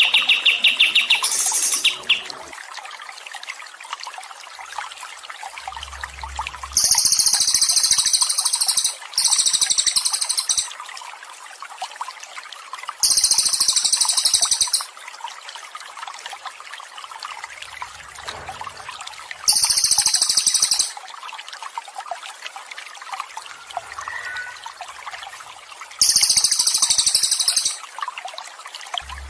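Songbird trilling in very high, buzzy bursts of about a second and a half, five times with pauses of a few seconds between, over steady trickling water.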